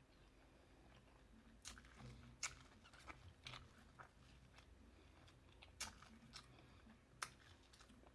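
Quiet, close-miked chewing of seafood, with several sharp clicks and crunches spread through it.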